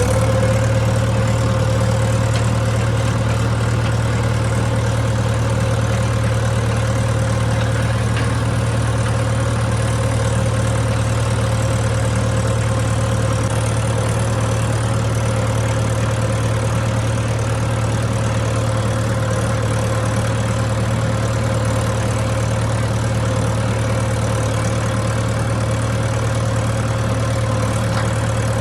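Tractor engine running at a steady, even speed while pulling a nine-tine cultivator through the field.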